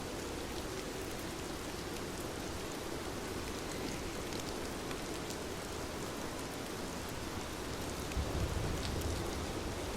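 Steady rain falling on surfaces, with scattered drops ticking through it. A low rumble swells briefly near the end.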